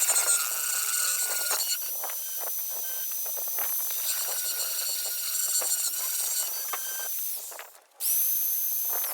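A small high-speed power tool running with a steady high whine over a strong hiss, with scattered short scraping ticks as it works. It cuts off for a moment near the end, then spins straight back up.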